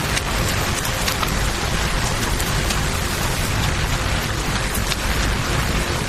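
Steady rain and flowing river water blended with a burning campfire, with a few sharp crackles and pops scattered through.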